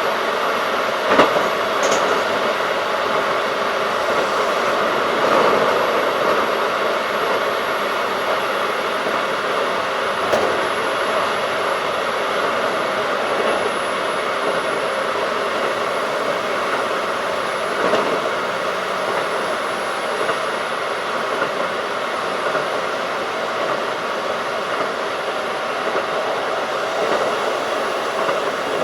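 Running noise heard inside a Keikyu 1500 series field-chopper-controlled electric train at speed: a steady rumble of wheels on rail, with a few sharp clicks about a second in, near the middle and about two-thirds through.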